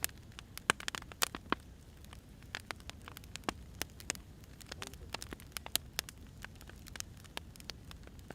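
Wood fire crackling: irregular sharp pops and snaps of burning firewood over a low, steady rumble.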